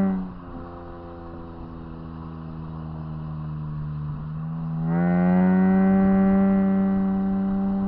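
Lexus IS200's 2.0-litre 1G-FE straight-six, with no catalytic converters and a stainless muffler, heard on board. The revs drop off sharply as the throttle closes, and the engine runs quietly and steadily under light load. About five seconds in the throttle opens again: the exhaust note gets much louder, rises slightly in pitch, then holds a steady drone.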